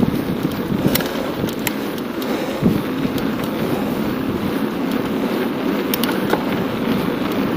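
Wind buffeting the microphone and a steady rush of tyres and air while riding a bicycle at speed, with a few sharp clicks and rattles from the bike.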